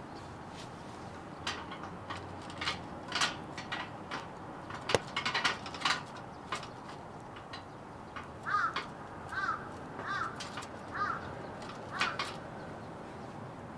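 Firewood burning in a fire pit, crackling with irregular sharp pops, the loudest about five seconds in. In the second half a crow caws about five times, roughly a second apart.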